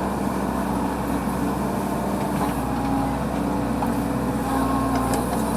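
Heavy diesel engine of a working tractor or backhoe loader running steadily, its note shifting slightly about two and a half seconds in.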